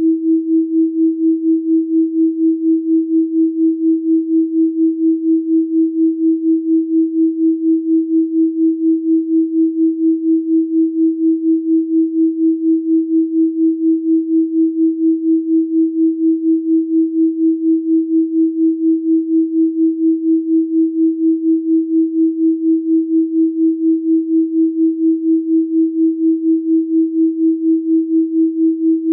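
Pure electronic sine tone at 324 Hz, held steady at one pitch throughout, its loudness pulsing evenly several times a second.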